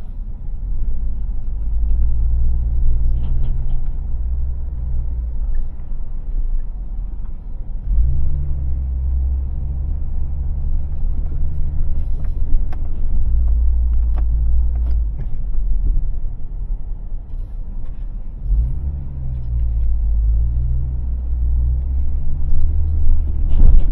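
Low rumble of a vehicle's engine running, with its pitch shifting about 8 seconds in and again around 19 seconds, as with changes in engine speed.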